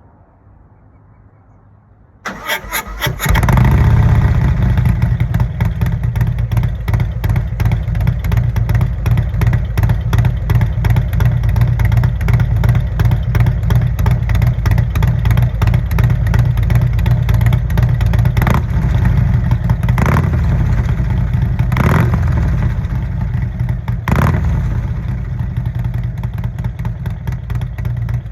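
Harley-Davidson V-twin fitted with an S&S 475 cam being started: the electric starter cranks briefly about two seconds in, then the engine catches and runs loudly with an uneven, lopey idle. A few short throttle blips come in the second half.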